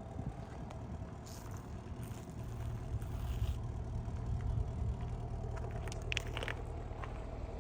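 Chevrolet Camaro SS's 6.2-litre V8 engine running with a steady low rumble, with a few brief higher rustling sounds over it.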